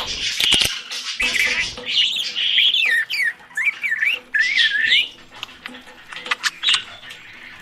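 Pet budgerigar (parakeet) chirping and warbling in quick up-and-down glides, with sharp clicks mixed in; busy for about five seconds, then only a few scattered chirps.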